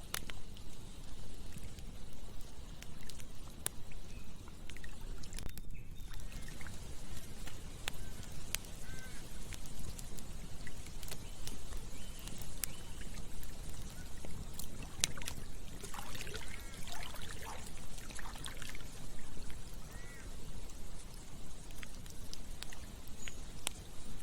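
Campfire crackling with sharp scattered pops over the steady rush of a flowing river. A few short animal calls come in about two-thirds of the way through.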